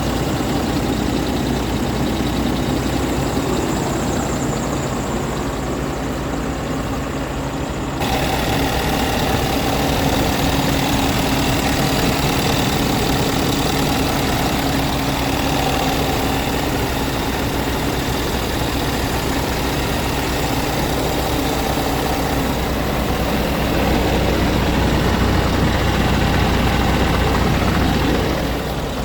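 Scania R tractor unit's diesel engine running steadily at idle. Its sound changes abruptly about eight seconds in and gets a little louder near the end.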